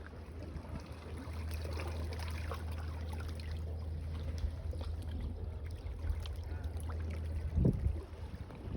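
Small waves lapping and trickling among seaweed-covered stones at the water's edge, over a steady low rumble of wind on the microphone. A louder dull thump comes near the end.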